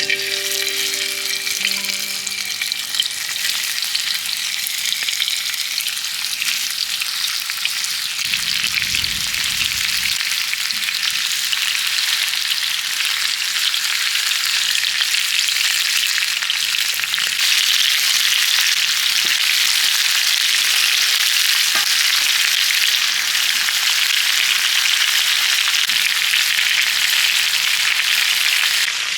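Food sizzling steadily as it fries on a multi griddle, getting slightly louder about halfway through, with a brief low rumble about eight seconds in.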